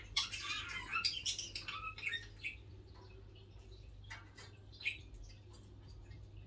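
Two female budgerigars chirping and chattering, busy for the first two and a half seconds, then only a few single chirps.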